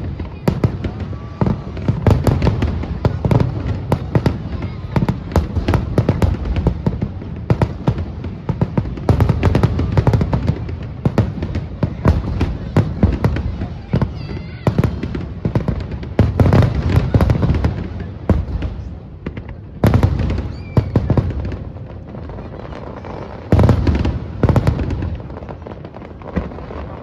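Aerial fireworks display: a rapid, dense run of shell bursts with deep booms and crackle, thinning out in the second half, with two big bursts near the end.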